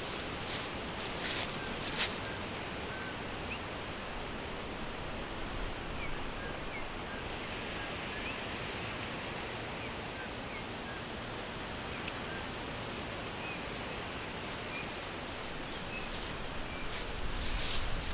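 Forest ambience: a steady hiss with faint, scattered short bird chirps. A few sharp clicks or crackles stand out, the loudest about two seconds in, with more near the end.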